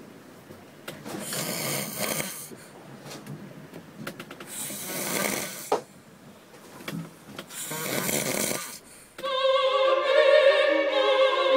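A man snoring in deep sleep, three snores about three seconds apart. About nine seconds in, the snoring cuts off and opera singing with orchestra begins.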